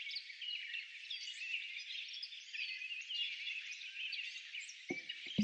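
Dense chorus of birds chirping and calling, many short overlapping notes. Near the end, music with a steady beat comes in and is louder than the birds.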